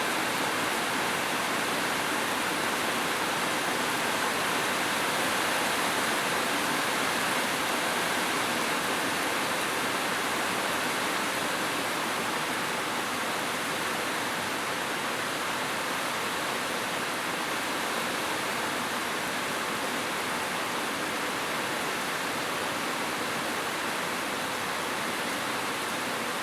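Heavy rain falling steadily on a roof, an even unbroken hiss with no thunder.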